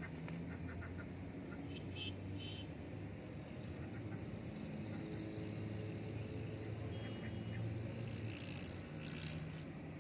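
Ducks and chickens feeding, with a few short clicks and brief high calls, over a steady low motor hum.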